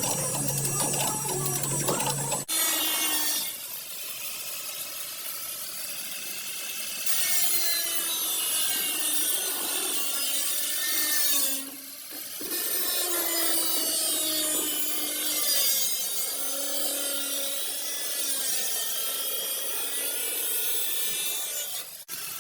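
A handheld power tool working on car body sheet metal, its pitch wavering up and down under load with a strong hiss. The sound breaks off abruptly and resumes twice, once about midway.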